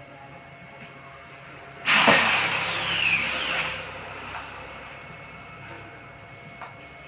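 A power tool runs in one short burst of about two seconds, its pitch falling as it winds down.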